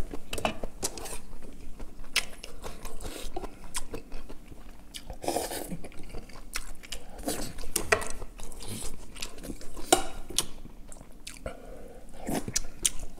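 Chewing and biting sounds of a person eating braised kimchi and rice, with irregular sharp clicks of a spoon and chopsticks against a stainless steel bowl.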